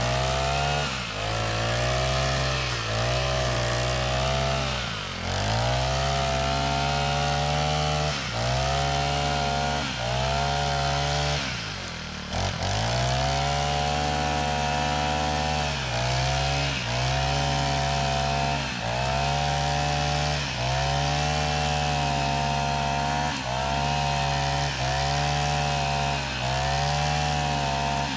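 Small petrol engine on a garden or forestry tool running under repeated load, its pitch dipping and recovering every second or two, with one deeper drop about twelve seconds in.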